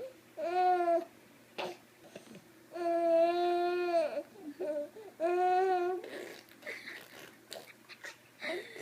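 Baby vocalising: three drawn-out, pitched 'aah' calls, each about a second long, between cry and babble, followed by softer, rougher, sputtering sounds in the last few seconds.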